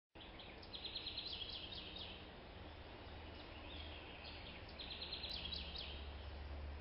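A bird calling outdoors in two quick series of short, high notes, the first about a second in and the second about five seconds in, over a steady low rumble.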